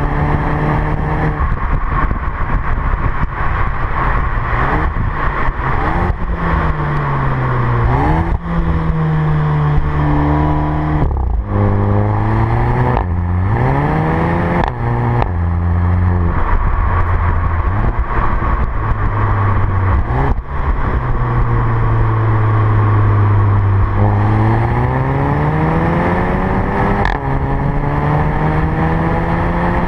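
VW Golf 7 GTI Performance's turbocharged four-cylinder engine and exhaust under repeated acceleration: the engine note climbs, drops suddenly at each DSG gear change, and climbs again. Several gear changes come with a short sharp crack, and in a stretch a little past the middle the note holds steady before falling and rising again.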